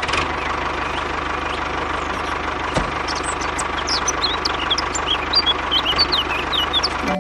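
A motor running steadily with a fast, even low pulse, and short high chirps over it in the second half.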